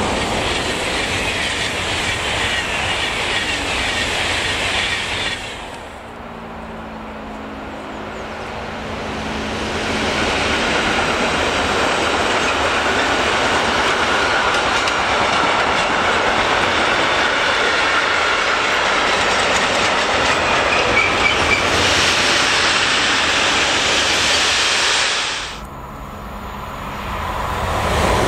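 Passenger coaches of a locomotive-hauled train running past at speed, ending about five seconds in. After a short lull, a long freight train of covered sliding-wall wagons rolls past with wheel rumble and clatter until near the end, when an ICE 3 high-speed train comes up close.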